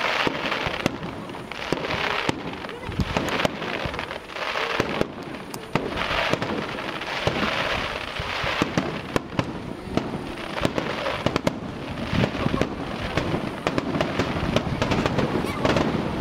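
Aerial fireworks going off in rapid succession: many sharp bangs and crackles, some echoing, over a continuous hiss of bursting shells.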